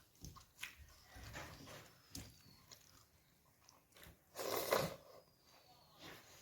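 Close-up eating sounds: irregular chewing and mouth clicks, with a louder half-second burst of noise about four and a half seconds in.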